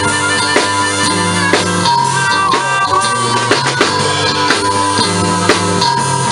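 Live blues band playing an instrumental passage: a drum kit keeps a steady beat under a repeating bass line, with a held lead line that bends in pitch.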